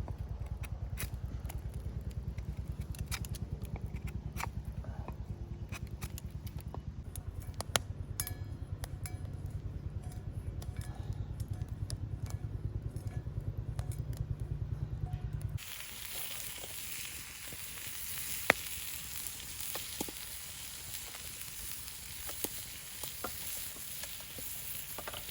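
Food sizzling over a campfire, with scattered crackles and sharp pops. About two-thirds through, the low rumble under it drops away suddenly, leaving a brighter hiss with crackles.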